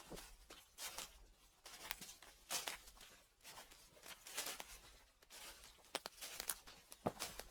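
Footsteps crunching through dry fallen leaves at a steady walking pace, about one crackling step a second.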